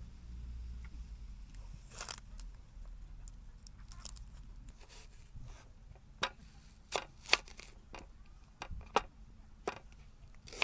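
Rustling and crinkling handling noise, then a run of sharp separate clicks in the second half. The loudest clicks come a little past seven seconds and near nine seconds.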